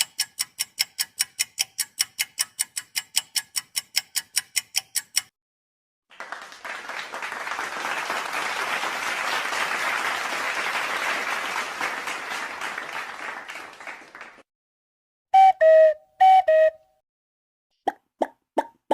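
A run of stock sound effects. First come rapid sharp ticks, about four or five a second, for about five seconds. Then applause swells and fades over about eight seconds, followed by two quick loud two-note tones falling in pitch.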